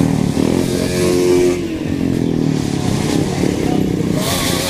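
Several motorcycle engines running, idling and revving as the bikes are ridden in and parked, with a rise and fall in engine pitch about a second in and again near the end.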